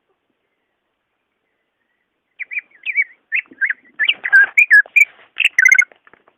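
Cucak ijo (green leafbird) singing: after a silent pause, a quick run of clear whistled notes bending up and down starts about two and a half seconds in and runs for nearly four seconds.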